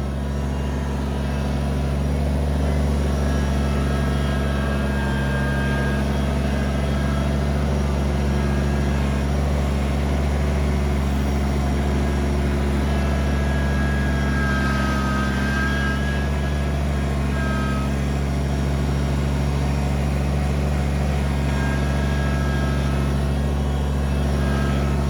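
Kubota BX23S compact tractor's three-cylinder diesel engine running steadily, with a faint higher whine briefly about halfway through.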